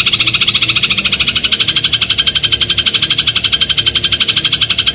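Eurasian tree sparrow giving a fast, even, rattling trill of about fifteen notes a second, held without a break.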